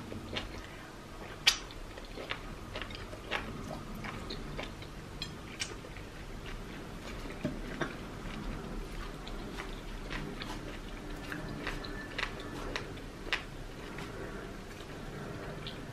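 Close-miked eating sounds: chewing with many scattered sharp wet mouth clicks and smacks, the loudest about one and a half seconds in.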